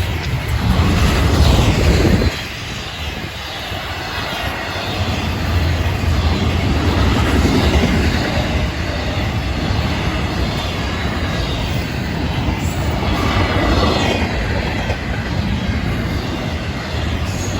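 Freight cars of a Florida East Coast Railway train rolling past at close range: a steady low rumble of wheels on rail with clickety-clack, loudest for the first couple of seconds.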